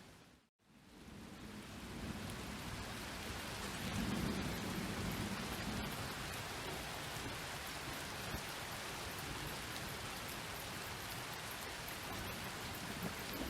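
Steady rain falling, with a low rumble of distant thunder swelling about four seconds in. About half a second in the sound fades briefly to silence and then fades back up.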